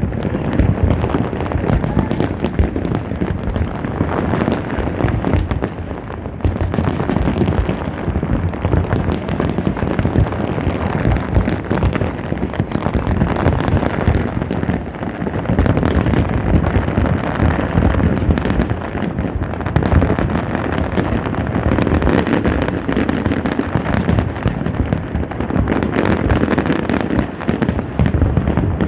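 Fireworks display: a continuous, dense barrage of bangs and crackling with no pauses.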